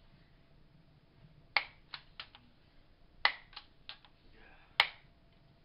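Sharp clicks in three quick clusters, each a loud click followed by two or three fainter ones, about a second and a half apart.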